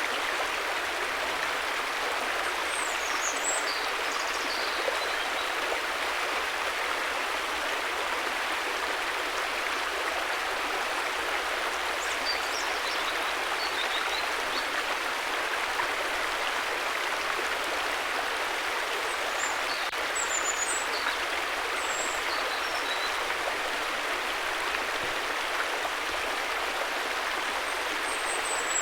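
River water flowing steadily in a continuous, even rush. A few short, faint, high chirps come and go above it, several times.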